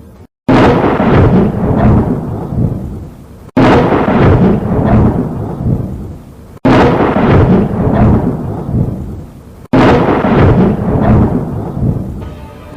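Thunder: four loud claps with rumble in a row, each starting sharply and dying away over about three seconds before the next cuts in abruptly.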